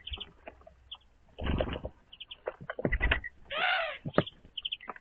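Small birds chirping at a winter feeder, with short high notes in quick little groups, and one longer harsh call about three and a half seconds in. Brief low rustling noises come about one and a half and three seconds in.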